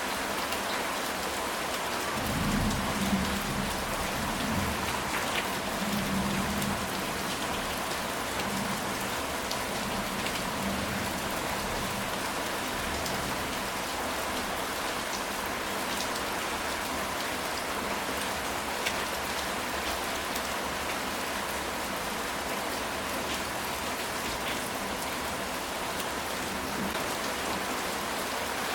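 Steady heavy rain drumming on a ceramic tile roof, with a low rumble of distant thunder from about two seconds in that fades out a few seconds later.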